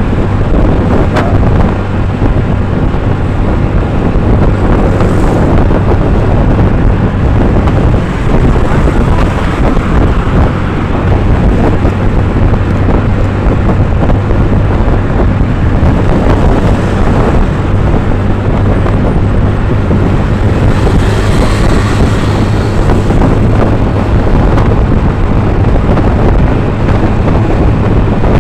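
Loud, steady wind buffeting the microphone over the drone of a moving vehicle's engine.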